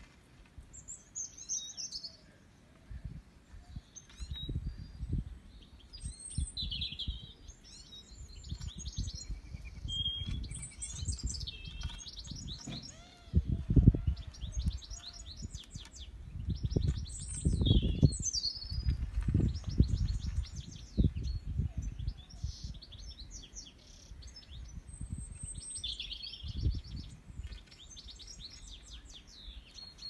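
Small songbirds chirping and twittering in quick high trills, on and off. Beneath them, irregular low rumbling buffets come and go, loudest around the middle.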